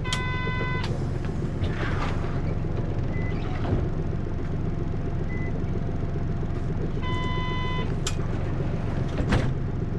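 Hino U-HT2MLAA city bus heard from inside, its engine droning steadily while under way, a bus the recordist describes as tending toward abnormal noises, close to the worn-out state of a sister bus near the end of its service. An electronic chime sounds twice, at the start and about seven seconds later, with a few short knocks in between.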